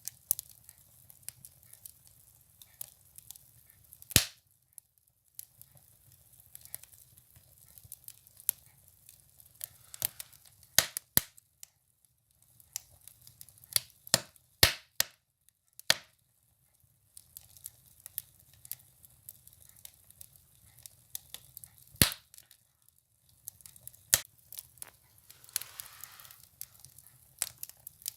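Firewood burning in a stove, crackling with scattered sharp pops. The loudest pop comes about four seconds in, a run of pops falls around the middle, and another strong one comes near three-quarters of the way through.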